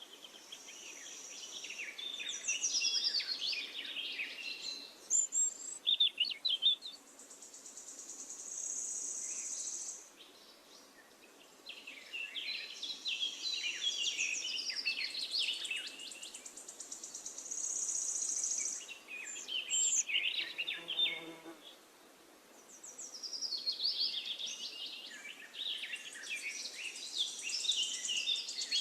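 Songbirds singing in bursts of quick, varied chirping phrases, alternating every few seconds with a steady high-pitched buzzing trill.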